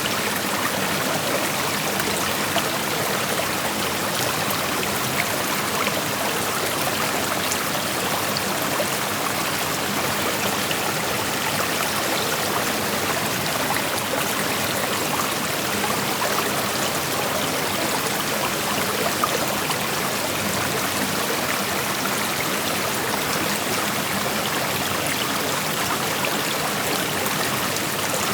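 Shallow creek flowing steadily over rocks: an even rushing of water with small splashes and trickles.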